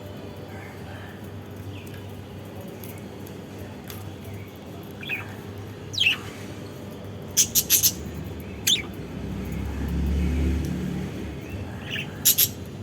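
Pet budgies giving short, sharp chirps now and then, with a quick run of about four together midway. A low rumble swells for a couple of seconds in the second half.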